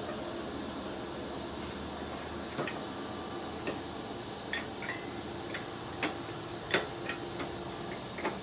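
Scattered light clicks and knocks at irregular intervals over a steady hiss; the loudest knock comes about two-thirds of the way through.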